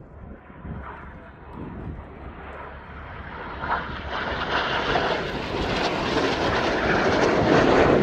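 Jet aircraft approaching, its engine noise building steadily to a loud roar through the second half.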